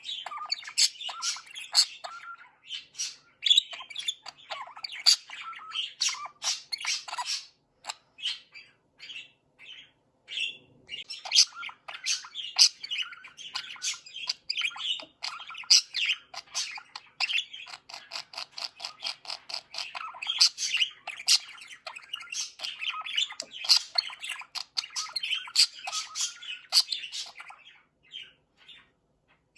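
Pet budgerigar chatter: a rapid run of chirps, warbles and squawks. It thins to scattered clicks and chirps for a few seconds about a third of the way in, then carries on dense until near the end.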